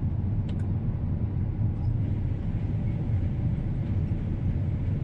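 John Deere T670i combine running with a steady low drone as its header runs in reverse to spit out a blockage of damp straw. A couple of faint clicks sound near the start.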